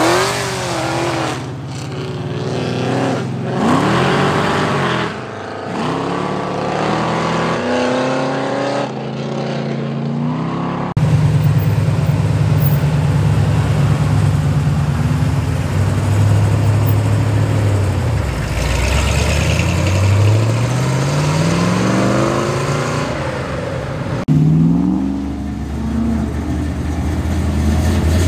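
V8 muscle and sports car engines, one car after another: several short rising revs and accelerations in the first part, then a deep, steady rumble with one rev climbing about two thirds of the way through, and another car revving near the end.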